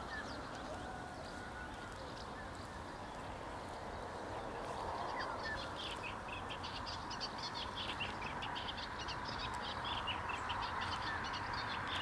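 Birds chirping over a steady background hiss, the chirping growing busier and more rapid from about halfway through.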